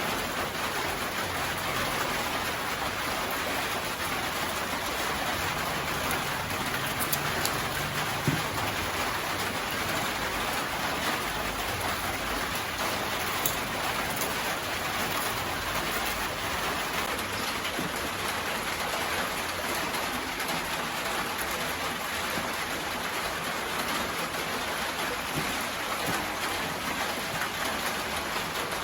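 Steady rain falling, an even hiss of rain on surfaces with an occasional sharper tap.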